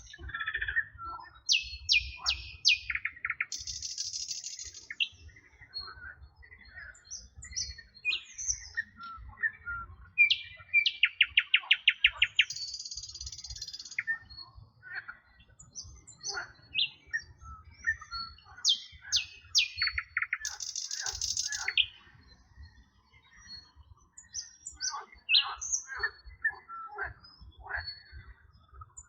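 Several songbirds singing, with quick chirps and fast rattling trills. A high buzzy phrase comes back about every eight seconds.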